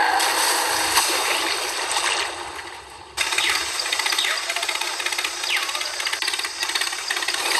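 Small electric motor of a miniature DIY tractor model running with a rapid buzzing rattle. The sound fades and then cuts back in abruptly about three seconds in.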